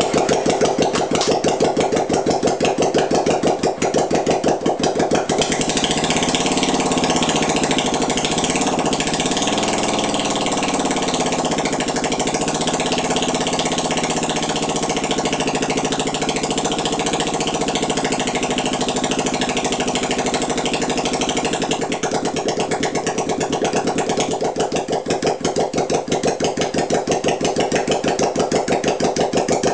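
Freshly rebuilt Honda CB350 motorcycle engine running on its first start after restoration. It idles with an even beat, is revved up and down several times from about six seconds in, then settles back to a pulsing idle about twenty-two seconds in.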